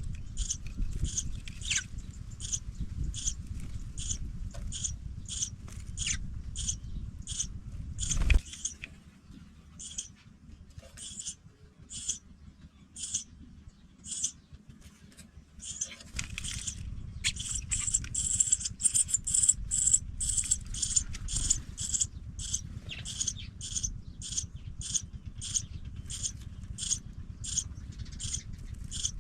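Pipit nestlings calling: a steady run of short, high cheeps, about two a second, getting louder and busier a little past the middle. A low rumble sits under the calls, dropping away for several seconds in the middle.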